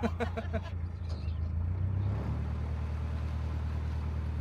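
Narrowboat engine running steadily with a low hum, its note shifting about two seconds in.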